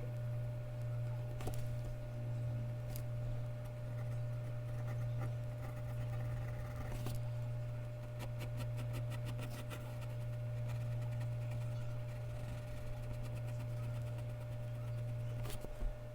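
A steady low hum with faint mechanical-pencil strokes scratching on Bristol paper over it, including a run of quick short strokes about halfway through.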